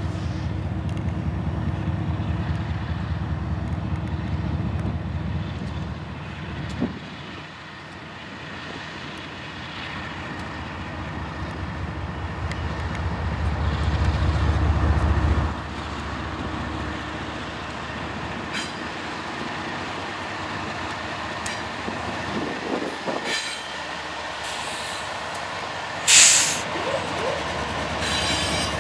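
BNSF diesel freight locomotives approaching and passing, their engines running with a low rumble that builds and then drops off suddenly about halfway through, followed by the rolling noise of tank cars going by. A brief, loud high-pitched burst of noise comes near the end.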